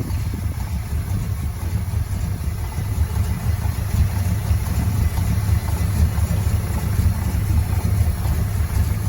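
Cammed Dodge 318 small-block V8 in a first-generation Ram pickup idling steadily.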